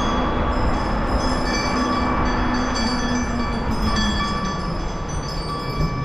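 Bicycle riding over rough pavement, recorded on a GoPro: a steady rumble of tyres and wind on the camera, with a sustained hum that slowly drops in pitch and some thin high tones.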